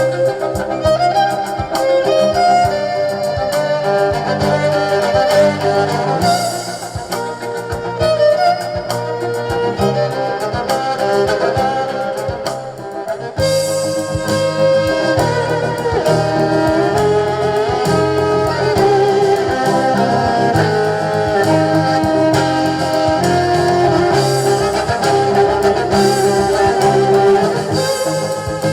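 Live band playing: a sustained melody line over drums and bass, with no break in the music.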